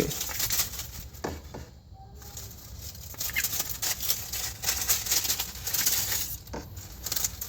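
A small trapped bird fluttering and scrabbling in a window well: a run of quick rustling wing flaps and scratches.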